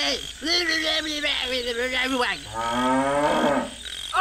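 Cow mooing: one long moo that drops in pitch at its end, followed by a second, lower moo.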